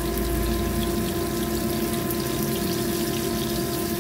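Battered fish pieces shallow-frying in oil over a low gas flame: a steady sizzle with faint crackles, over a constant machine hum.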